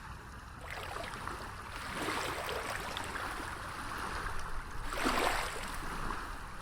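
Ocean waves washing onto a beach, with a louder surge of surf about five seconds in.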